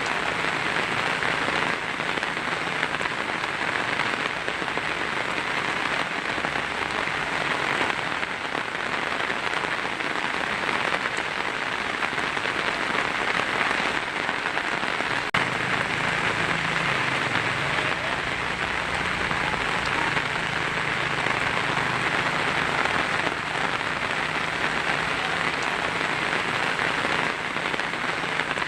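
Heavy rain on a tin roof, a steady, dense hiss of drops, with one sharp tap about halfway through.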